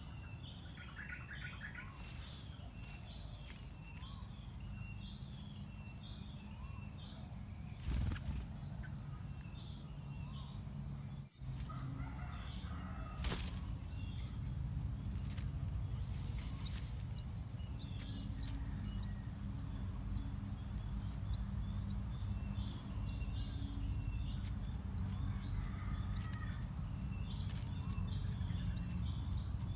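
Small birds chirping in rapid short high notes over a steady high-pitched insect drone, with a low rumble underneath and a couple of sharp clicks, the loudest about 13 seconds in.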